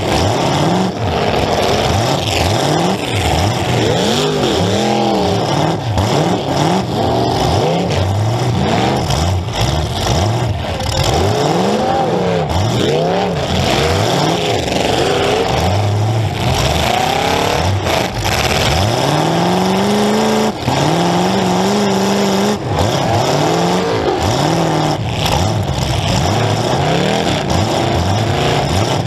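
Demolition derby car's engine heard from on board, revving up and falling back over and over with no pause, with a few sharp knocks in between.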